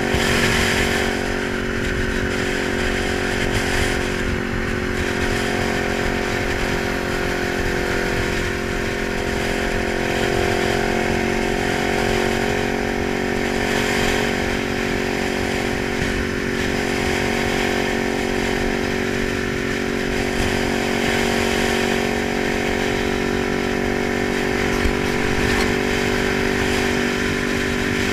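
Kawasaki 900 motorcycle engine running at a steady, unchanging pitch with no revving.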